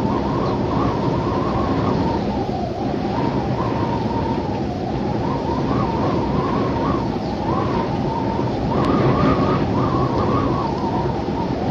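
Wind ambience: a steady rushing wind with a howl that wavers up and down in pitch.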